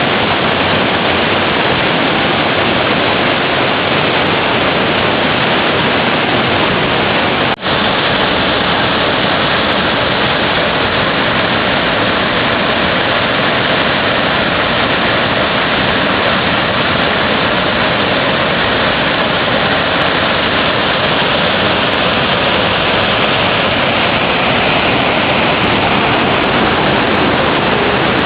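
Fukuroda Falls rushing steadily in a dense, unbroken wash of water noise, the falls swollen by heavy rain. The sound drops out for an instant about seven and a half seconds in.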